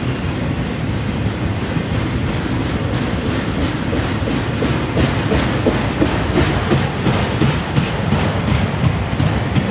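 Freight train of autorack cars rolling past: a steady rumble of steel wheels on rail with a clickety-clack of wheel sets over rail joints. The clacking is sharper in the second half as the last cars go by.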